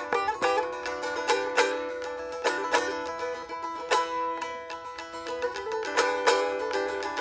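Solo plucked string instrument playing a free improvisation: quick plucked notes over a steady drone.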